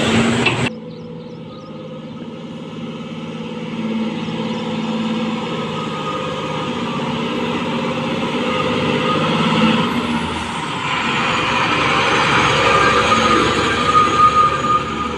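Heavy diesel machinery running at a work site, its engine note swelling and easing over several seconds. The sound changes abruptly less than a second in.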